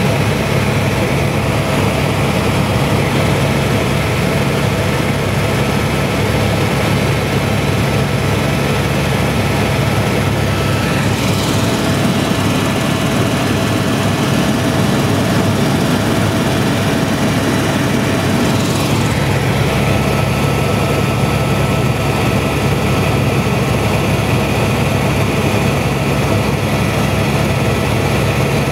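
Helicopter in flight: engine and rotor running in a steady, even drone, with a slight change in its tone for a few seconds about midway.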